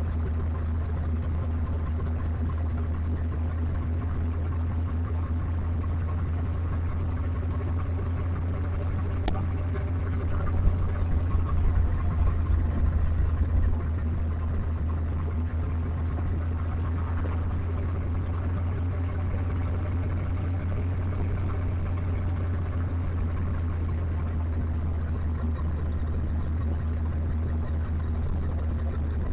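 Motorcycle engine running at a steady, unchanging speed with a constant low hum, growing louder and rougher for a few seconds about a third of the way in. A single sharp click sounds just before that.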